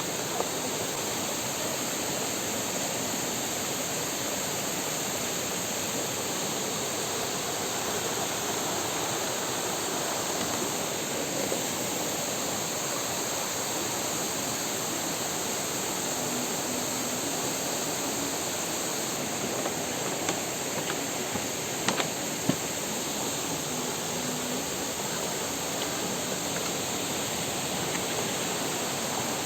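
Steady rushing of a waterfall and river, with a few sharp knocks about two-thirds of the way through.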